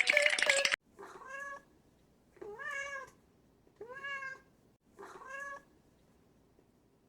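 Background music cuts off just under a second in, followed by a domestic cat meowing four times, each meow about half a second to a second long, the middle two rising and then falling in pitch.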